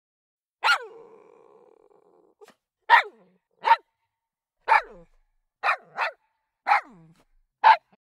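Recorded dog barks played from a dog-sounds app: eight single, sharp barks at irregular gaps of about half a second to two seconds. After the first bark a faint steady tone trails on for about a second and a half.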